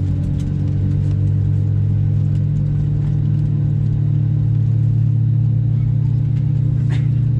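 Steady low hum inside the cabin of an Airbus A320neo during pushback, with a few held low tones, as the aircraft's engines and air systems run.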